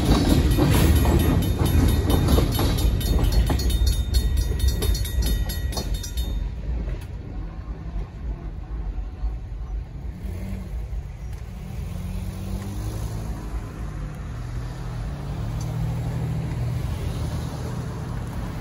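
Freight cars rolling through a road grade crossing, wheels clacking over the rail joints, with the crossing bell ringing, for about six seconds. The sound then drops off as the train clears, and car engines start moving across the tracks as the gates go up.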